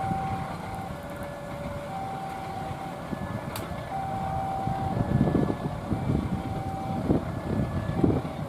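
Railway level-crossing warning signal: a faint electronic two-tone alarm that switches back and forth between a higher and a lower pitch, each held for about a second. It sounds over a low, uneven rumble with wind that grows in surges during the second half.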